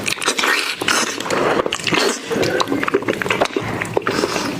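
Close-miked eating: wet chewing and biting, with many sharp crackling clicks of mouth and food sounds.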